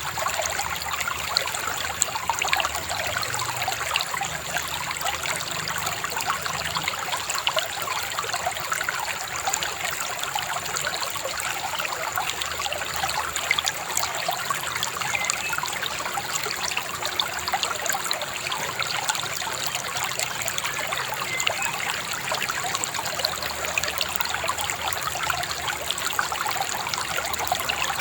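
A babbling river: a steady trickling rush of water with many small gurgles.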